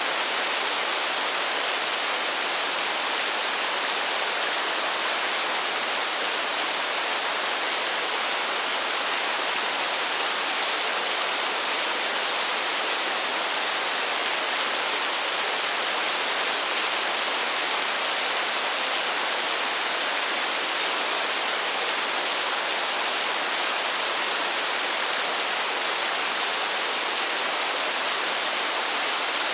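Steady, even rush of falling water, a bright hiss with no single drops or splashes standing out.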